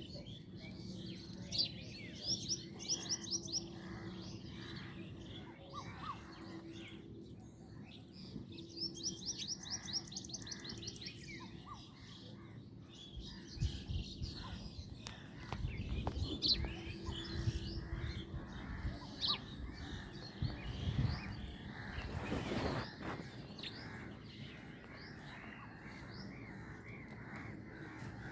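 Sparrows chirping, with two quick runs of high chirps, one a couple of seconds in and one about ten seconds in, and scattered single chirps between. A low rumble rises and fades in the middle.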